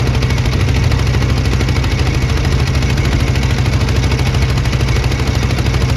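Boat engine running steadily at a fast chugging beat, heavy in the low end.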